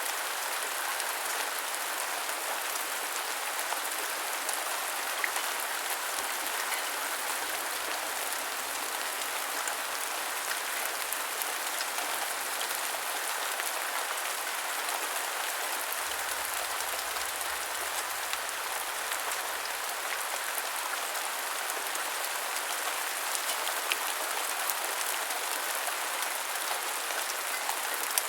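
Continuous heavy rain: a steady, even hiss of falling rain with scattered drop ticks.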